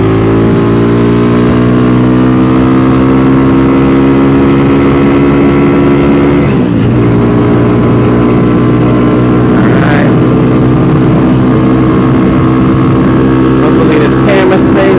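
Carbureted 250 cc DF250RTS motorcycle engine running under way, its pitch climbing slowly as it pulls. About six and a half seconds in the note breaks and drops at a gear change, then holds fairly steady.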